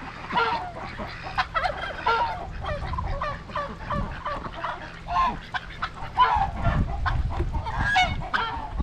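Domestic geese honking over and over in quick, overlapping calls, with other poultry calling among them and wind rumbling on the microphone.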